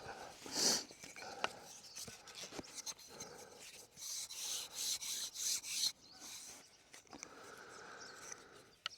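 Wood rubbing on wood in the back-and-forth strokes of a bow drill, with scattered scrapes and a run of quick, even strokes about halfway through.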